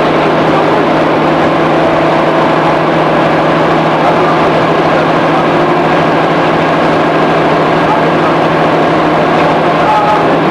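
Cabin running sound of a JR 211 series electric multiple unit motor car: a steady rumble of wheels on rail with an even hum from the underfloor traction motors and gearing, at a steady speed.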